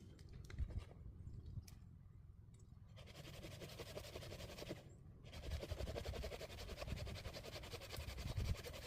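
Hand saw cutting in fast, continuous back-and-forth strokes, sped up to double speed. The sawing starts about three seconds in and pauses briefly just before the halfway mark.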